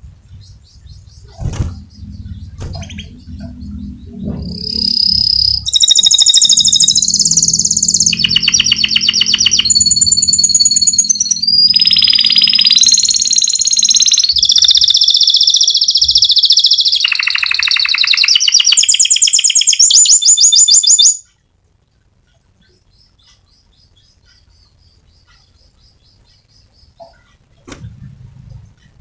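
Canary singing a long rolling song: fast trills and rapid repeated notes, loud from about five seconds in. The song stops abruptly about three-quarters of the way through, with a low hum beneath it.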